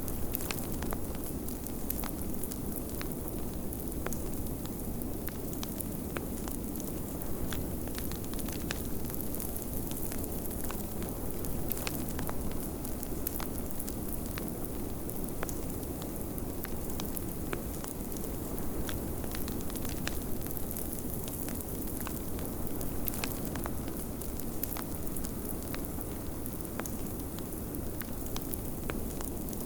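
Wood fire crackling, with frequent small pops scattered throughout, over a steady low rush of snowstorm wind.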